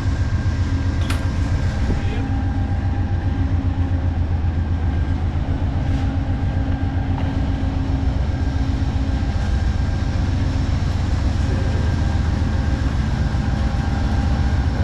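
Diesel locomotive of a train standing at the station, its engine running steadily: a constant low rumble with a steady hum above it.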